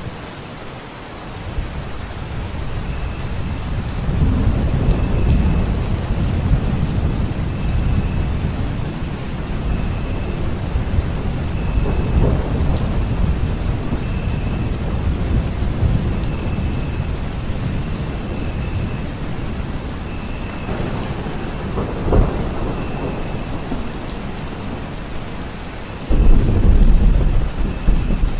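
Thunderstorm: steady rain with rolling thunder. Low rumbles swell from a couple of seconds in, there is a sharp crack about twenty-two seconds in, and a sudden loud, deep clap comes near the end.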